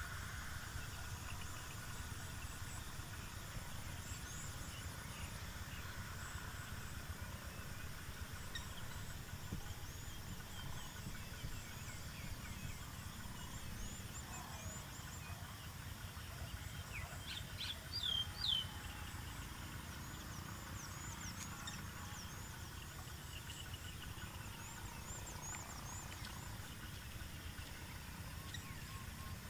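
Birds chirping with many short, high chirps, and a louder call of a few sharp notes about eighteen seconds in, over a steady low rumble.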